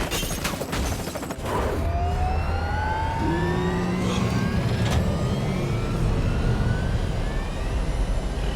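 A burst of rapid gunfire for about the first second and a half, then a vehicle engine running hard, with whines that rise slowly in pitch as it accelerates.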